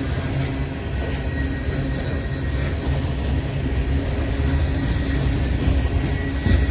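Train rolling past with a steady low rumble of cars and wheels, a few sharp clicks, and a faint high thin tone from the wheels.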